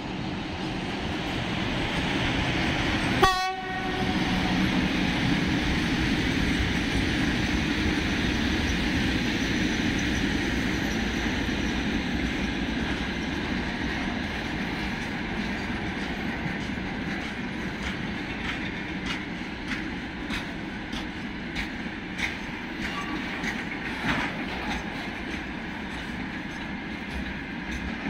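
VL11M electric locomotive passing at speed at the head of a freight train, with a short horn toot about three seconds in. Then tank cars and covered hoppers roll by with a steady rumble, and clicks from the wheels crossing rail joints come thicker toward the end.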